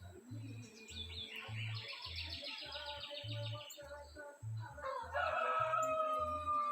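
Birds calling: a rapid high trill, then a long, slightly falling call starting about five seconds in. A faint low throb repeats about twice a second underneath.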